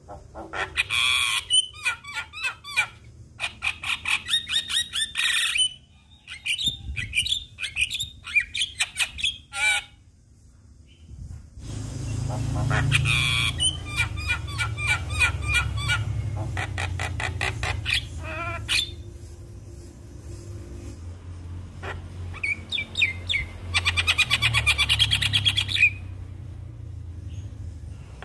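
Javan myna singing: runs of rapid repeated chattering notes mixed with harsh squawks and short whistles, in bursts with brief pauses. A low rumble runs underneath from about halfway.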